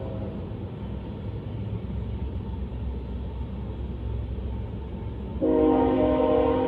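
Low train rumble, then a locomotive air horn blasts a chord of several steady notes about five and a half seconds in, a grade-crossing warning.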